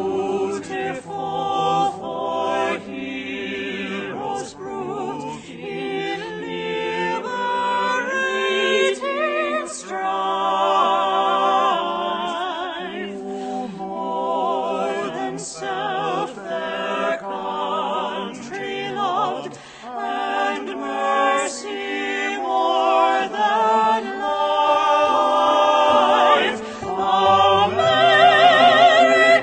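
Sung music: a slow vocal piece with vibrato over a sustained low accompaniment, the notes changing every second or so.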